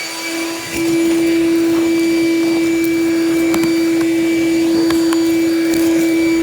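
Ridgid WD-6000 six-gallon wet/dry shop vac running at full speed, very loud, a steady whine over rushing air as it sucks caked lint out of a clogged dryer vent. It gets louder about a second in, with occasional small ticks.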